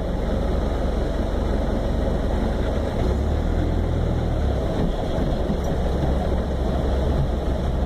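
Truck engine running at low revs, a steady low rumble heard from inside the cab, a little heavier about three seconds in.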